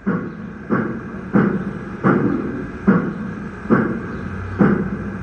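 Steam locomotive exhaust chuffing in a slow, even rhythm, about eight puffs, as the engine pulls ahead from a start.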